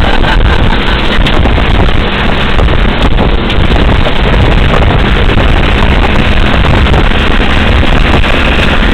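Moving truck running steadily, its engine and road noise mixed with wind buffeting the microphone.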